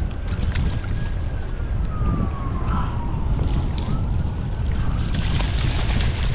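Strong wind buffeting the microphone, a steady low rumble, with a thin faint whistle that wavers slowly up and down in pitch and a few scattered light clicks.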